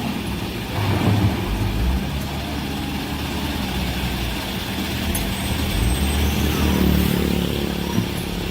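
Heavy construction machinery running: a big diesel engine's steady low drone, swelling slightly about a second in.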